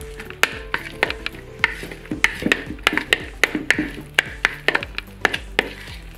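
Background music, with repeated irregular clicking knocks from a utensil stirring mashed banana and starch batter in a bowl.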